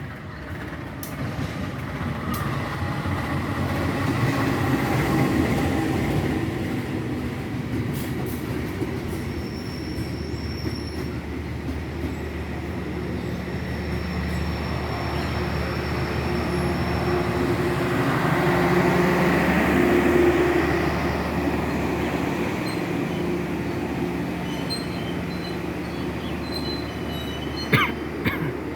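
Train running along the track: a steady rumble with thin high squealing tones from the wheels, swelling louder twice.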